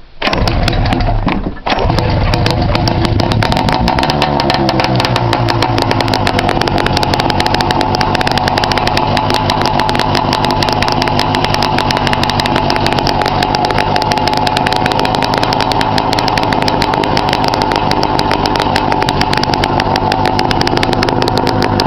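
1997 Arctic Cat Puma 340 snowmobile's two-stroke engine, started on the choke with its muffler removed. It catches, falters briefly about a second and a half in, then runs steadily with a rapid popping from the open exhaust, really loud.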